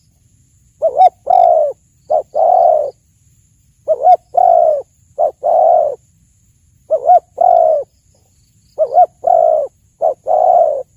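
Spotted dove (tekukur) cooing. The same phrase repeats about every three seconds: a couple of quick short notes and a long coo, then a short note and another long coo.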